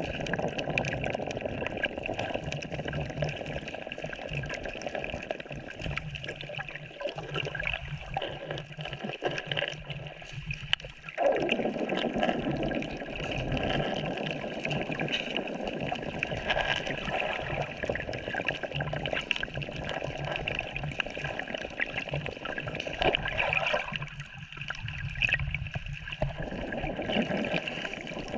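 Sea water sloshing and gurgling around a camera in shallow water, with trickling and bubbling. The fuller, lower part of the wash drops away twice, once for a few seconds about a quarter of the way in and again briefly near the end.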